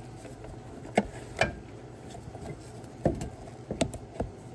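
About five sharp knocks and clacks at uneven spacing, made by parts and tools being handled while the intake plumbing of a diesel engine is worked on.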